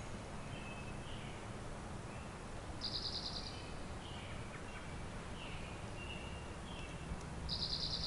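Quiet forest ambience with scattered small bird chirps and a short, rapid high trill heard twice, about three seconds in and again near the end, over a faint steady low hum.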